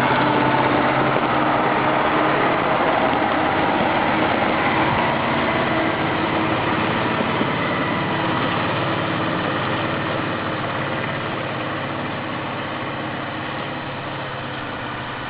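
Heavy off-road truck engine, a URAL 6x6, running steadily with a low hum, slowly fading over the whole stretch.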